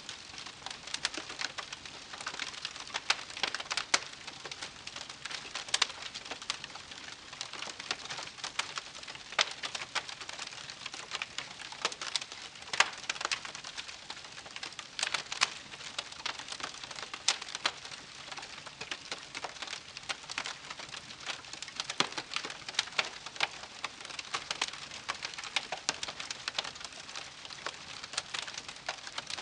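Wood campfire crackling: many irregular pops and snaps, some sharper than others, over a soft hiss.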